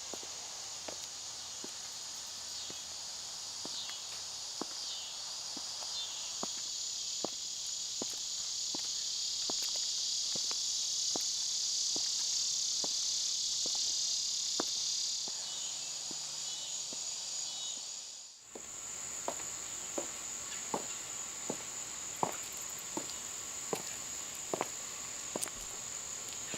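Chorus of insects, crickets or similar, a steady high-pitched trill, with light ticks at an even pace of a little more than one a second. About eighteen seconds in the chorus drops out briefly and comes back as a thinner, single high steady tone, the ticks going on.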